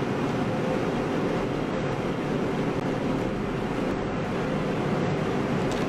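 Steady background hum and hiss with no change and no distinct events.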